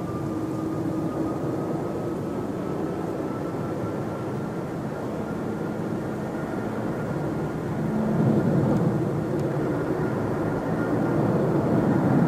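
Jet airliner engines running loud, with a thin whine slowly rising in pitch; the sound swells about two-thirds of the way through and again near the end.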